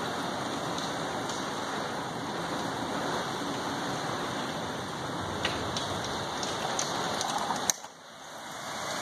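Heavy wind-driven rain of a severe thunderstorm, a steady hiss. Near the end come a few light clicks and one sharp click, then the sound drops off suddenly and builds back up.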